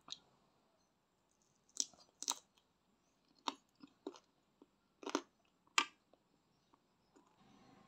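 Close-miked chewing and biting of crispy-coated chicken: about seven sharp crunches, irregularly spaced, with quiet chewing between them.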